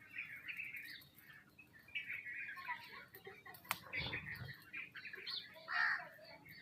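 Small birds, sparrows among them, chirping in quick overlapping calls. A sharp click comes a little past halfway, followed by a brief low thump.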